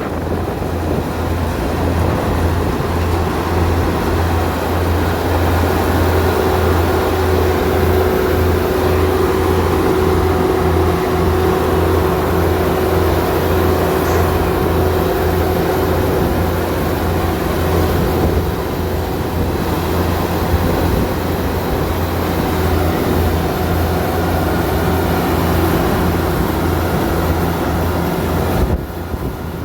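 Kubota DC70 combine harvester running steadily: a low diesel engine hum with a steady whine of the machinery above it from about six seconds in. The sound dips briefly near the end.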